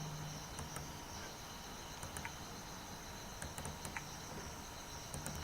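Faint background noise with no speech: a steady high-pitched whine or trill over a low hum, with a few faint ticks.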